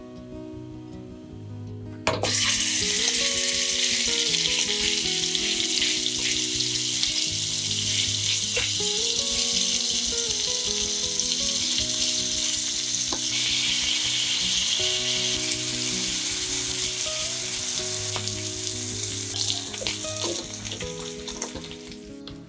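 Minced pork frying in hot vegetable oil in a nonstick pan. The loud sizzle starts suddenly about two seconds in as the meat goes into the oil, with occasional taps and scrapes of a wooden spoon stirring it, and it dies down near the end.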